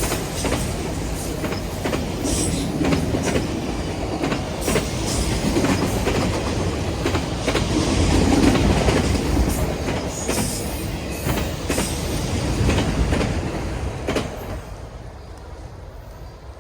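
Cars of a Canadian Pacific freight train rolling past, wheels clicking irregularly over rail joints over a steady rumble. The sound falls away about fourteen seconds in as the end of the train goes by.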